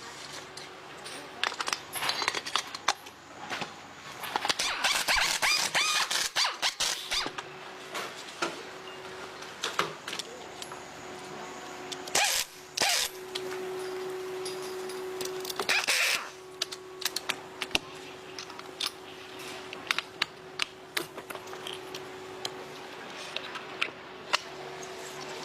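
Hand tools and small metal parts of a motorcycle engine being handled: many sharp clicks and clatters, with two short loud rushing noises about halfway through and a faint steady hum underneath.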